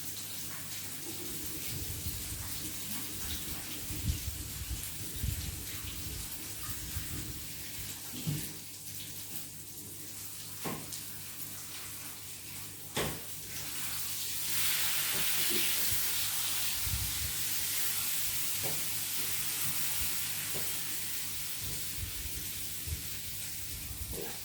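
Chicken fillets frying in hot oil in a pan, a steady sizzle that swells louder about halfway through, with a few sharp knocks of a utensil against the pan.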